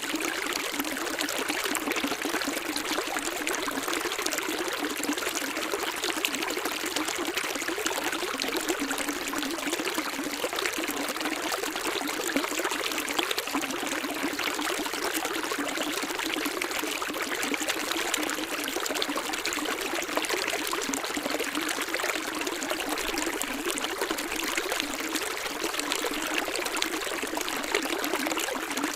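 Running water splashing and rushing steadily, with no pauses, as in a stream or small cascade.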